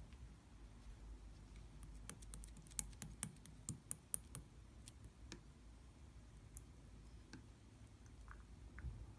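Slime being played with by hand, making faint sharp little clicks and pops, a quick run of them from about two to five seconds in, then only a few scattered ones.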